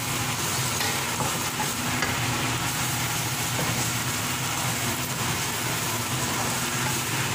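Minced meat frying in oil in a metal kadhai, sizzling steadily as a spatula stirs in freshly added ground spices, over a steady low hum.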